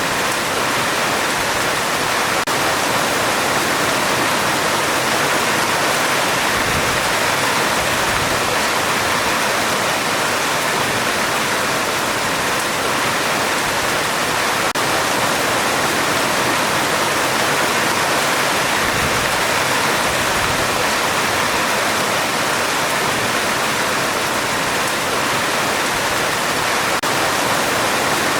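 Heavy rain drumming steadily on a metal roof, an even, unbroken hiss.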